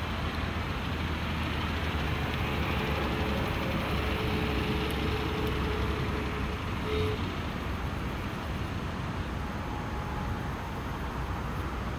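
Vintage open roadster's engine running as the car drives by, growing louder through the middle and then fading as it moves away.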